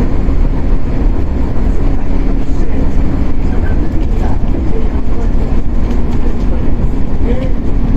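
Interior running sound of a Shinano Railway 115-series electric multiple unit motor car (KuMoHa 115-1013) under way, a steady loud rumble of wheels on rail with a constant motor hum.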